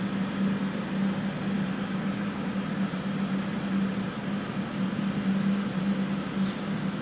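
Electric fans running steadily, an even rushing noise with a constant low hum. A brief faint tick about six and a half seconds in.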